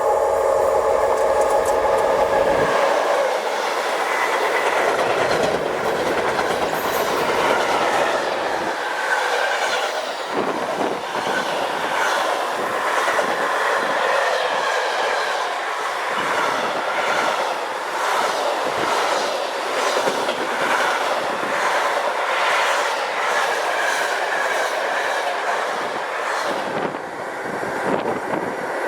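A long train passing close by, its wheels clicking over the rail joints in a steady rhythm, wagon after wagon. For the first three seconds a whine of several steady tones sounds over the rumble.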